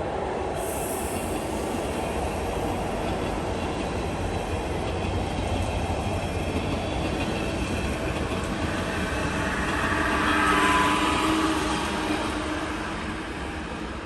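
A train running along the rails, a steady heavy rumble that builds to its loudest about ten seconds in, with a thin squealing tone from the wheels at its peak, then fades.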